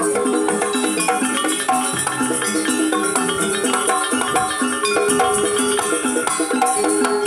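Jaranan dance accompaniment: a Javanese gamelan-style ensemble of struck pitched metal percussion and drums playing a lively, steady repeating rhythm, with rattling jingles on top.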